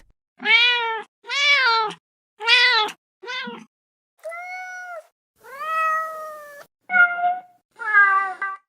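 Domestic cats meowing: about eight separate meows one after another with short gaps between them, the later ones higher-pitched than the first few.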